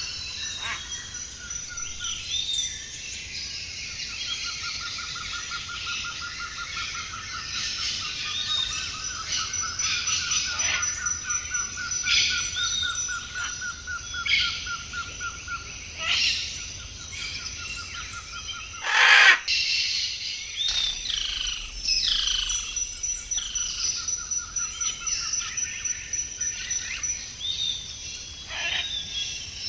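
Several wild birds calling at once: a rapid, even trill held for many seconds, many short chirps over it, and a thin high pulsing note throughout. One loud, brief call or knock about 19 seconds in.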